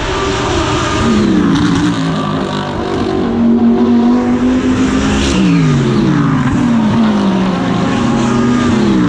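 GT3 race car engine heard onboard at racing speed, its note holding steady and then dropping in several stepped glides as the revs change through the gears.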